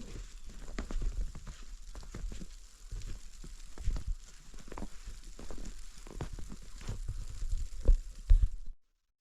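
A run of irregular knocks and thumps over a low rumble, the loudest two near the end, then the sound cuts off suddenly.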